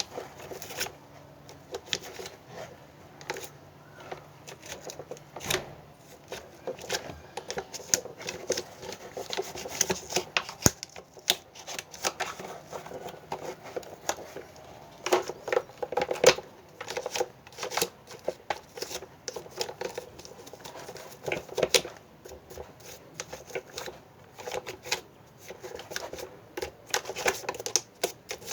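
Plastic parts of an electric fan being handled and cleaned: irregular clicks, taps and scraping, busiest around the middle.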